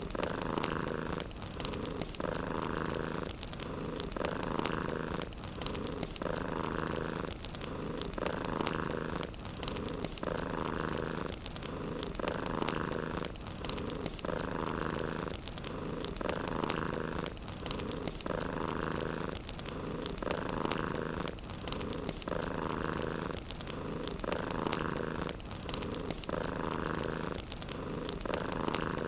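Domestic cat purring steadily, in an even rhythm that swells and eases about every two seconds with each breath.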